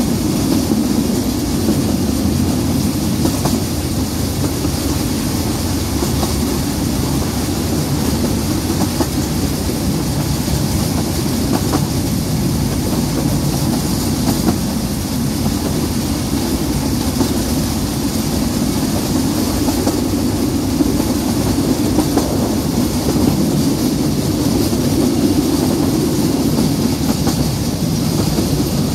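Narrow-gauge (3 ft) train running along the track, heard from an open carriage: a steady rumble of wheels on rail with a few light clicks.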